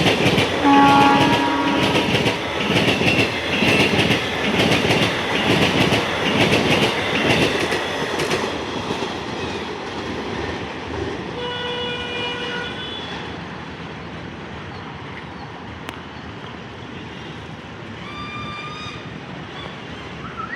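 Indian Railways train passing close by, its wheels clattering over rail joints in a steady rhythm that fades away after about eight seconds. A short horn blast about a second in, then two shorter, fainter horn calls around twelve seconds and near nineteen seconds.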